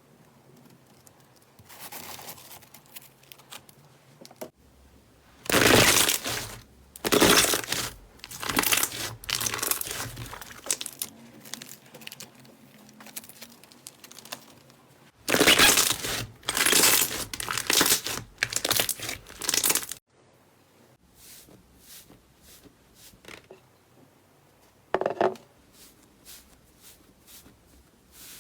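Slime being squeezed, stretched and pulled apart by hand: two spells of rapid, loud noisy bursts, each about five seconds long, then a quieter run of scattered small pops and clicks.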